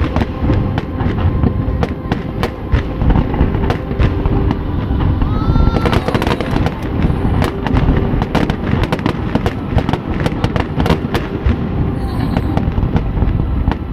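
Fireworks display going off in quick succession: a dense, continuous run of booms and sharp crackling reports over a heavy rumble.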